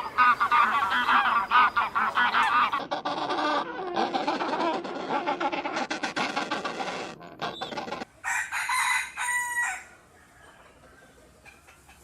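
Chickens clucking in a busy flock, with a rooster crowing among them. The calling stops about ten seconds in, leaving a faint hiss.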